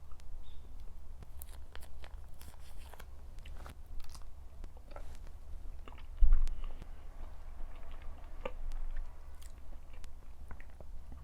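A person chewing and biting food close to the microphone, with scattered crunches and clicks. A single dull low thump about six seconds in is the loudest sound.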